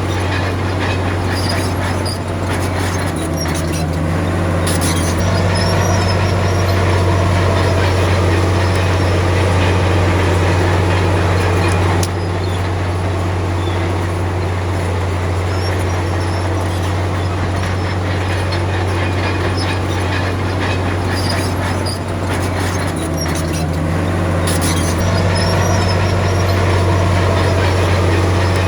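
Komatsu D53P crawler bulldozer's diesel engine running steadily under load, a constant deep drone that shifts slightly in pitch twice, with a fast ticking clatter from its steel tracks.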